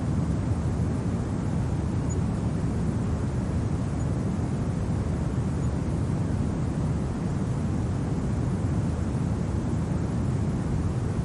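Steady low winter wind, an even rushing rumble that neither gusts nor changes.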